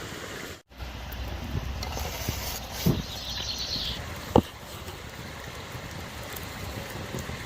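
Steady rush of a flowing stream, with a brief dropout under a second in and two sharp knocks about three and four and a half seconds in.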